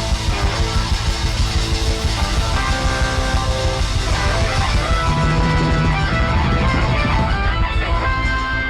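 Live band playing: electric guitar over a fast, even beat, giving way near the end to held, ringing chords.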